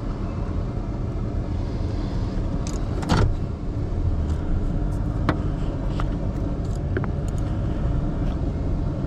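A motor vehicle running steadily with a low rumble, with a few sharp clicks or taps on top; the loudest click comes about three seconds in.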